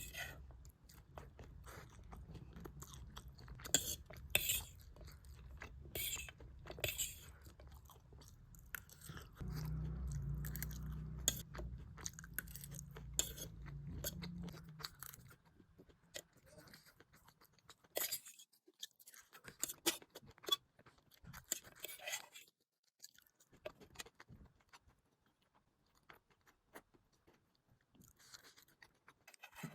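Close-miked chewing of noodles, sausage and egg, with many short wet mouth clicks and the odd crunch. A low hum sits under the first half and stops about halfway.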